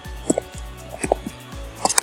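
Loud sharp clicks in quick pairs, about three double clicks, typical of computer mouse clicks during digital painting, over background music with a steady low bass line.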